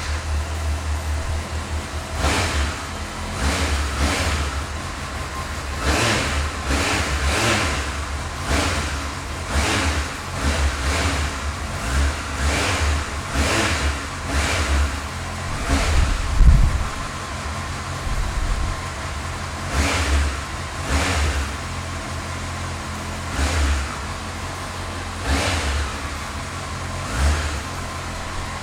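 Honda CBF1000's inline-four engine just started and idling, with the throttle blipped in short revs every second or two; the biggest rev comes a little past halfway.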